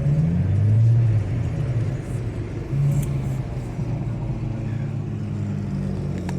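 Car engine running with a deep rumble, its pitch rising and falling as it is revved, loudest about a second in.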